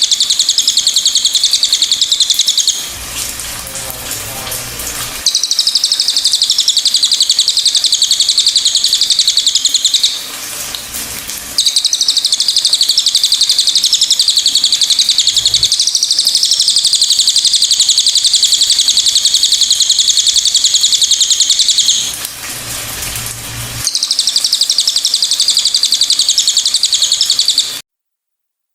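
A cililin songbird singing a long, rapid, high-pitched chattering trill, broken by three short pauses and cut off just before the end.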